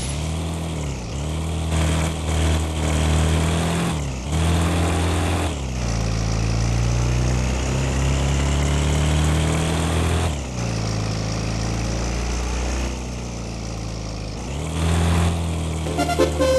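Yamaha R25 motorcycle's parallel-twin engine running, its revs dipping and rising again several times between stretches of steady running.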